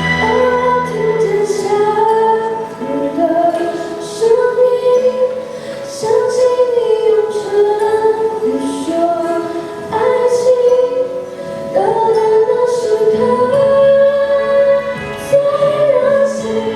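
A solo voice singing a slow Mandarin pop song over instrumental accompaniment, the sung melody rising and falling in long phrases.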